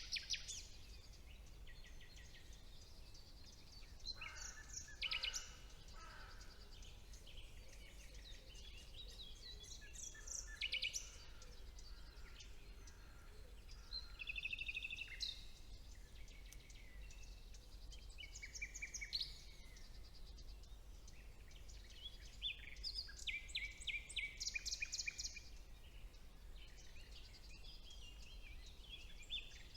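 Woodland songbirds singing: a string of short, varied phrases, several with fast repeated notes, coming one after another over a faint steady low background noise.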